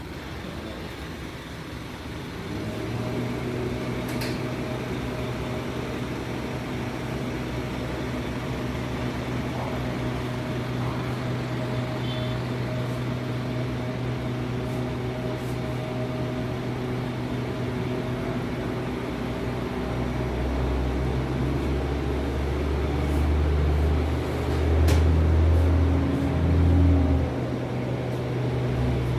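Steady mechanical hum that sets in a couple of seconds in. It grows louder with a low rumble for several seconds near the end.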